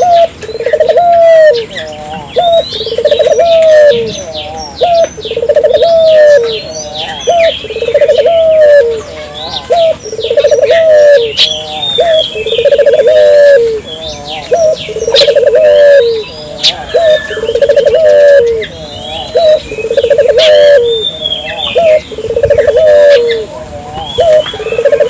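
Barbary doves (puter) cooing in a steady repeating pattern, a rolling coo every couple of seconds, with small birds chirping higher over them.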